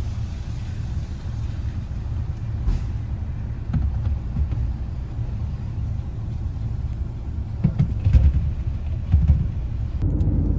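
Steady low road rumble of a car in motion, with a few short knocks and bumps from about three seconds in and again around eight to nine seconds.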